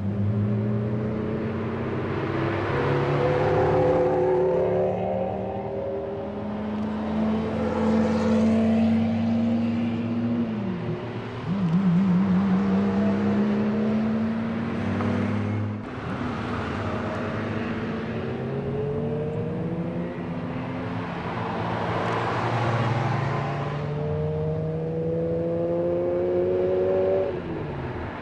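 Several supercar engines running as cars drive by one after another. Their pitch rises and falls with the revs, and each swells and fades as it passes. The loudest pass comes about twelve seconds in.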